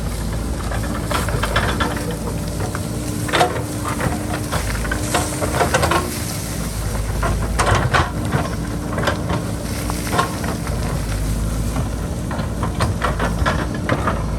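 JCB backhoe loader digging into a hillside: its diesel engine runs steadily while the bucket scrapes soil and stones clatter and crack, in irregular sharp knocks throughout.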